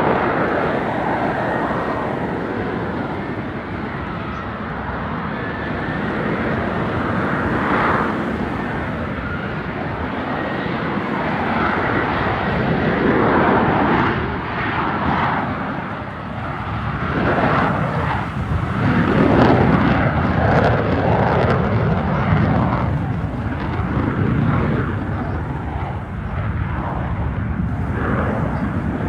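F-35B fighter jet's F135 turbofan engine in flight: a continuous jet rumble that swells louder and eases off several times as the aircraft moves around the sky.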